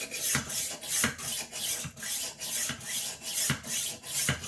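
Rolling knife sharpener's abrasive wheel rolled back and forth along a kitchen knife's edge: repeated rasping strokes, about two a second.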